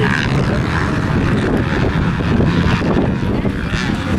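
Motocross dirt bike engine running hard under race load, its pitch rising and falling as the throttle is worked, with wind buffeting the microphone.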